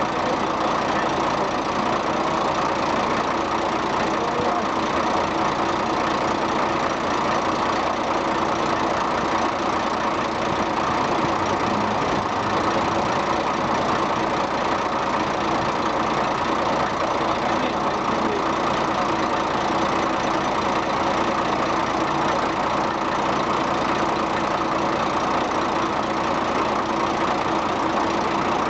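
Mitsubishi Fuso T653 dump truck's 6DS-70A inline-six diesel engine (5.4 litre) idling steadily, with no revving.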